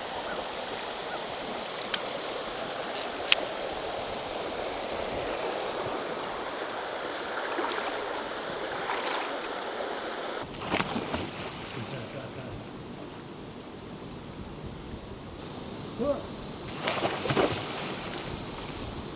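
Creek water running over rocks, a steady rush, with a couple of sharp clicks in the first few seconds. About halfway the sound shifts and a few short splashes and knocks stand out over the water.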